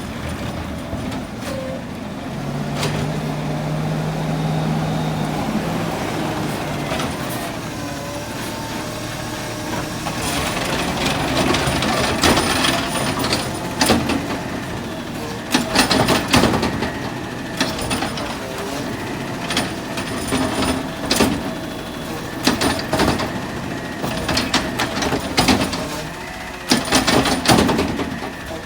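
Rear-loader garbage truck running on its route, with a steady hum early on. From about a third of the way in, repeated sharp bangs and clatter over the running.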